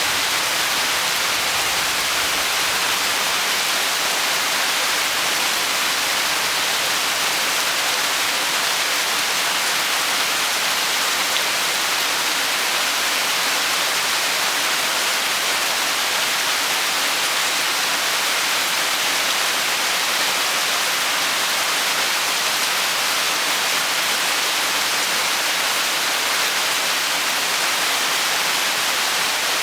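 Steady heavy rain falling, a dense even hiss with no separate drops or thunder standing out.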